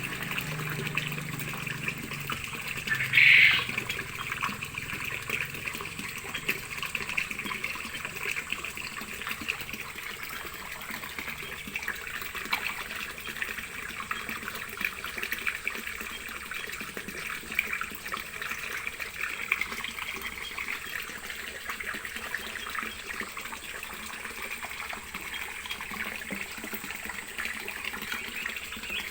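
Water trickling and splashing steadily, with one short, louder sharp sound about three seconds in.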